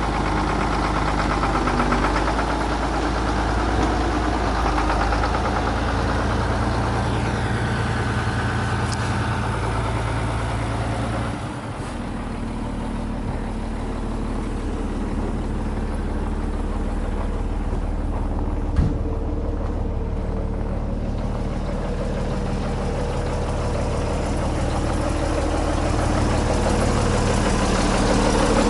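Scania 92H tipper truck's six-cylinder diesel engine idling steadily. There is a short dip about eleven seconds in and a single sharp click a little later.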